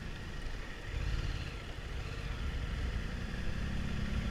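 Yamaha FZ-07's parallel-twin engine running as the bike rides through traffic, a low rumble that grows stronger about a second in.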